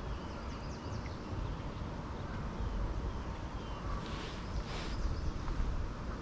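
Outdoor river ambience with a steady low rumble, a few faint bird chirps, and two short hissing swishes about four and five seconds in.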